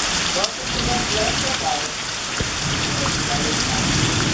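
Heavy rain pouring onto a grassy farmyard and trees, a steady dense hiss.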